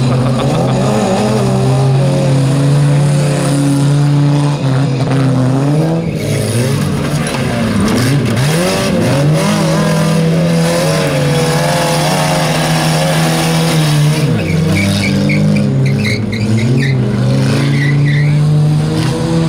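Stock car engines running loud and being revved on a dirt track, the pitch rising and falling as the cars accelerate and ease off around the mounds, with a sharp drop and climb in revs about halfway through.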